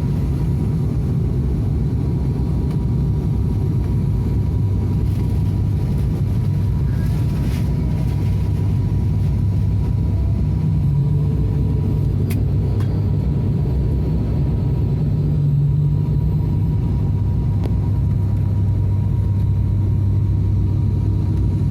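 ATR 72 turboprop engines and propellers droning, heard from inside the passenger cabin: a steady low rumble with a constant hum on top.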